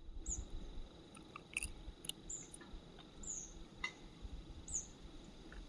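Short, high-pitched chirps from a small bird or animal, four of them, each sliding down in pitch, mixed with a few sharp ticks over a faint steady high tone and a low rumble.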